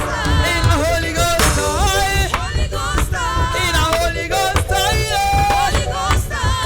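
Live gospel reggae band music: a steady bass and drum beat with a melody line on top that bends in pitch.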